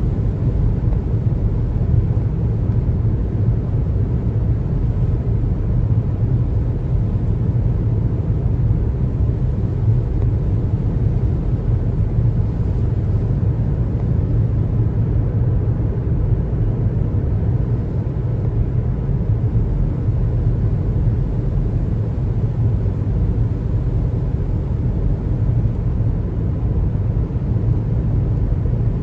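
Steady road noise of a car driving on the highway: an even, low rumble of tyres and engine with no sudden events.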